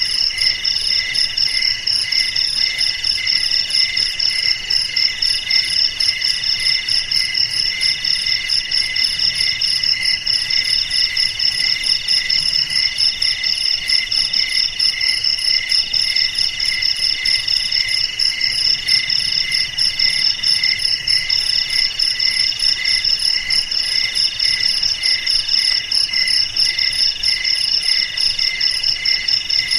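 A chorus of several crickets chirping together without pause, each at its own high pitch: some in fast pulsing trills, one in a steady trill that breaks off briefly every couple of seconds.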